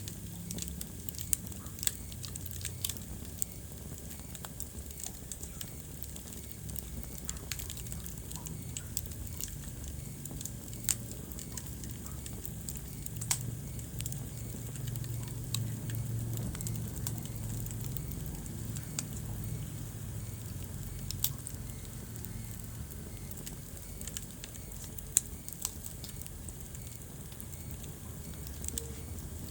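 Wood fire burning in a fireplace: a steady low rumble of the flames with irregular sharp crackles and pops from the burning logs, one louder pop about 25 seconds in.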